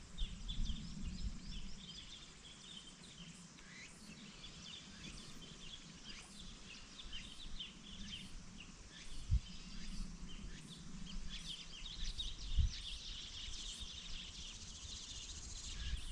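Birds chirping: a steady run of short, high calls over a low background hum, with two dull thumps in the second half.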